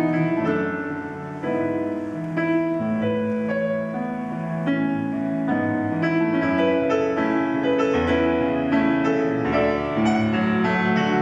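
Instrumental interlude of a slow ballad, led by piano chords and melody over a steady bass line, with no singing.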